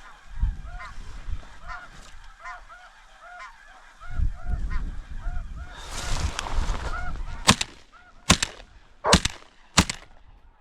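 Snow geese calling, a steady run of high honking notes, with wind buffeting the microphone. About seven and a half seconds in come four shotgun shots in quick succession, each under a second apart.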